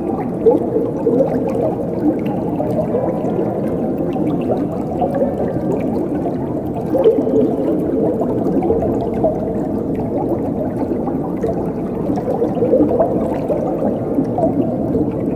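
Water flowing and gurgling steadily, a full, low burble without high hiss.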